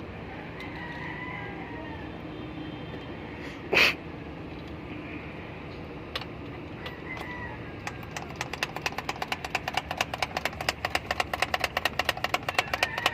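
Steady mechanical hum with one sharp knock about four seconds in. From about eight seconds on, a rapid, even clicking of several strokes a second comes in and grows louder.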